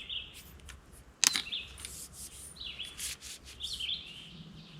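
Trekking pole being extended: handling and rubbing noises with a sharp click a little over a second in. Small birds chirp in the background.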